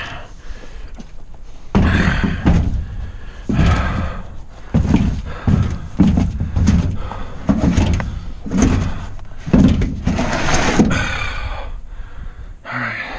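Thumps and scrapes of a large soil-filled planter being heaved off a wire garden cart and set down in a pickup truck bed, a run of irregular knocks over several seconds.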